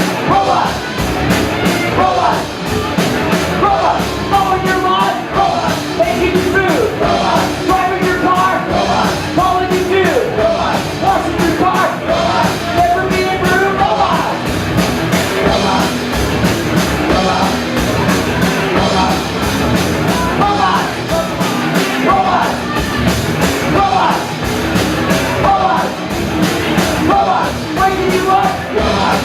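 Loud rock music with a fast, steady beat and yelled singing.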